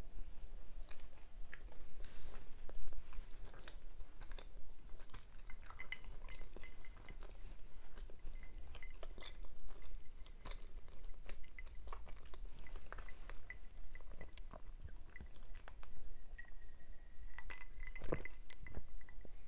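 A person chewing close to the microphone, with irregular wet smacks and clicks of the mouth.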